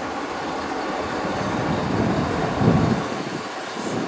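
Freight train running by, a steady rumble of wheels on rail with one louder thud about two and a half seconds in.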